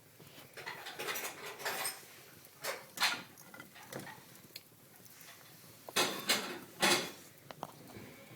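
Wood fire in a fireplace crackling, with irregular sharp pops and snaps over a faint hiss; the loudest cluster of snaps comes about six to seven seconds in.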